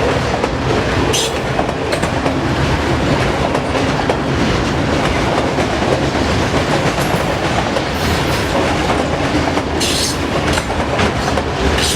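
Freight train of autorack cars rolling past, the wheels clattering steadily over the rail joints, with short high-pitched screeches about a second in and again near the end.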